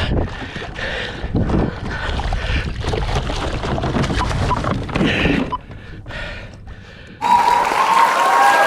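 Wind buffeting the microphone and water splashing around a fishing kayak, with small knocks. About seven seconds in it cuts abruptly to a louder, even hiss with a few faint high gliding tones.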